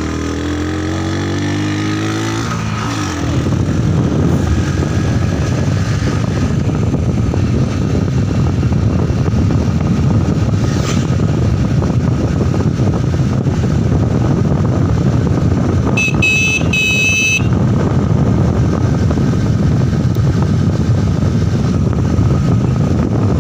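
Motorcycle engine rising in pitch as it pulls away, then a steady loud rumble of riding at speed. About two-thirds of the way through a horn sounds in a few short beeps.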